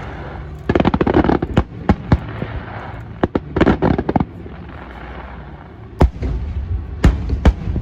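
Aerial fireworks going off: a run of sharp bangs with bursts of rapid crackling, then three single loud bangs near the end, over a low rumble.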